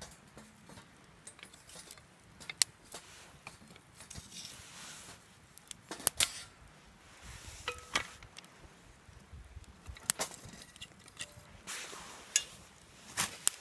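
Irregular sharp clicks and light metallic clinks, like metal utensils handled at a fire-pit grill, with a few short stretches of hiss between them.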